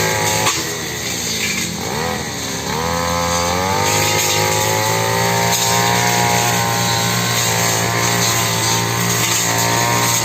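Brush cutter engine running at high speed; about half a second in its pitch drops, then climbs back between about two and four seconds in and holds steady.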